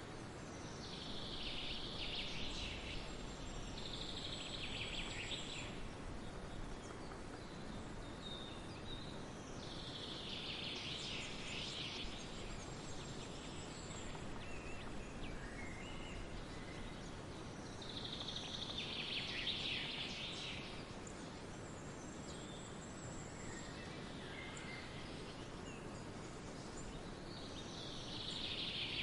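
Forest ambience: songbirds singing in bouts of dense, high chirping that come back every several seconds, over a steady background hiss.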